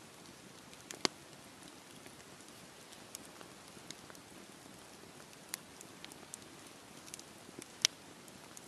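Wood fire burning with a low steady hiss and scattered sharp crackles and pops, the two loudest pops about a second in and near the end.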